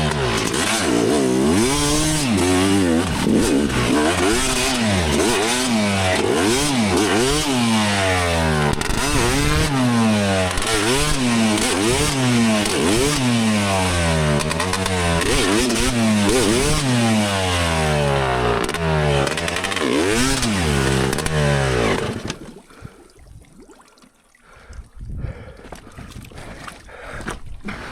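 Dirt bike engine revved again and again, its pitch rising and falling about once a second, as the rider tries to drive the stuck bike out of deep snow. The engine sound stops abruptly near the end, and only fainter scattered sounds remain.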